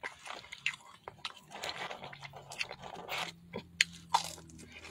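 A person chewing crispy fried food close to the microphone: irregular crunches and mouth sounds, with a bite into a crunchy French fry near the end.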